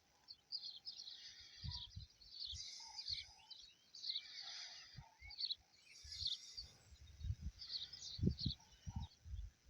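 Several small birds chirping and singing in quick, short phrases, with occasional low thumps of wind or handling on the microphone.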